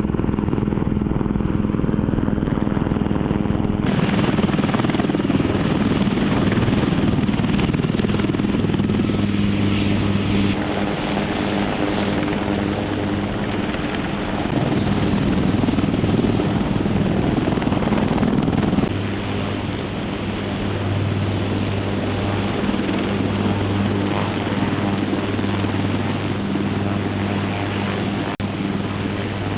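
Helicopter running with a steady engine and rotor drone. The sound changes abruptly about four seconds in and again near nineteen seconds.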